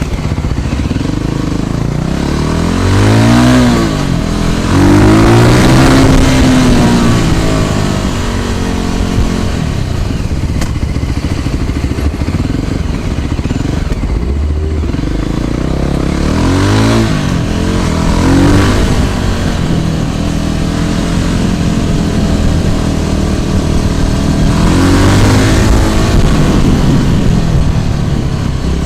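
Road traffic heard from a moving scooter: a steady rush of road and engine noise, with several vehicles' engines swelling and dropping in pitch as they pass close by, a few seconds in, around six seconds, around seventeen seconds and again near twenty-five seconds.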